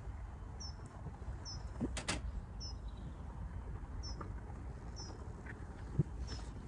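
A small bird calling, one short high chirp repeated about once a second. A sharp knock sounds about two seconds in and a brief thump near the end, over a low steady rumble.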